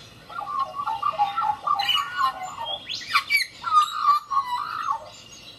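Bird calling: phrases of quick warbling notes, with a couple of sharp rising squawks in the middle, stopping about five seconds in.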